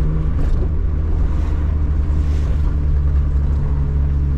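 Car engine running with a steady low drone, with road noise, heard from inside the cabin of a rear-wheel-drive manual car on the move.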